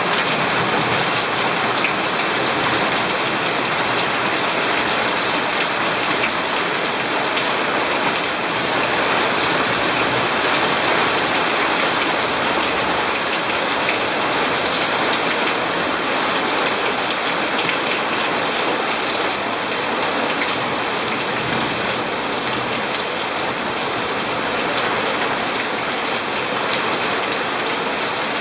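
Heavy rain falling steadily on leaves and wet paving: a dense, even hiss of drops with no letup.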